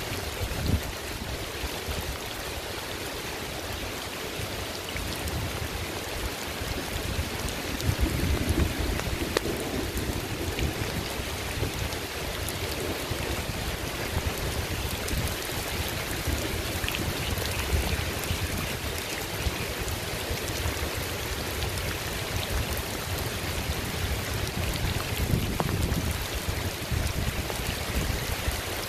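Steady rain, a dense even hiss, with low rumbling swells about eight seconds in and again near the end.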